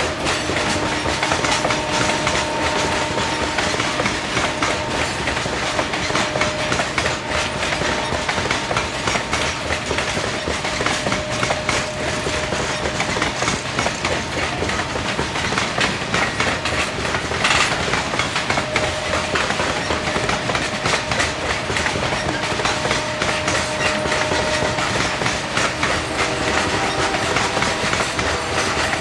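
Coal train's freight cars rolling past, their steel wheels clacking over the rail joints in a fast, steady rhythm. A faint ringing squeal from the wheels comes and goes.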